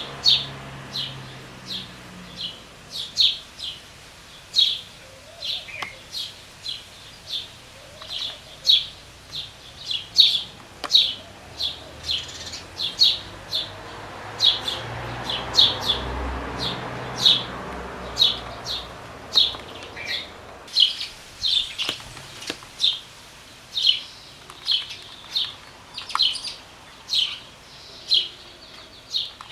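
Nestling birds' begging chirps: short, high, sharp chirps repeated about one and a half times a second, steadily throughout.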